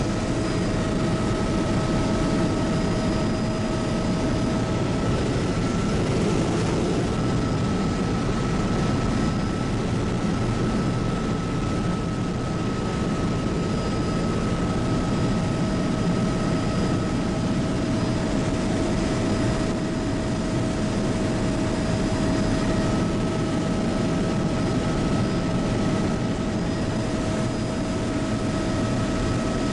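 Steady cabin noise of a Bell 206B JetRanger helicopter: the dense drone of the rotor and Allison 250 turboshaft engine, with a thin steady turbine whine on top.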